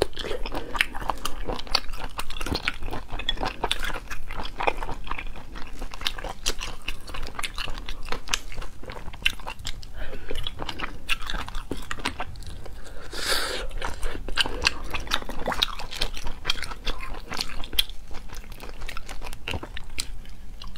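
Close-miked wet chewing, lip smacks and sucking as marinated sea snails are eaten, the meat pulled and sucked from the shells. Dense, irregular smacks and clicks throughout, with one longer, louder burst about thirteen seconds in.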